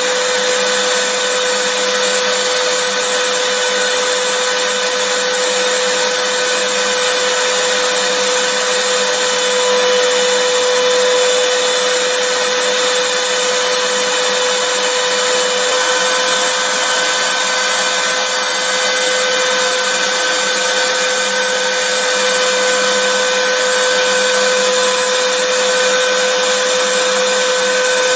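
Vacuum cleaner running continuously: a steady rush of air with a constant motor whine over it, unchanging in level and pitch.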